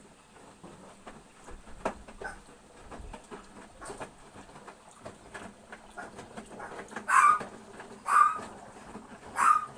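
A dog barking three short times, spaced about a second apart, over faint scattered clicks and knocks.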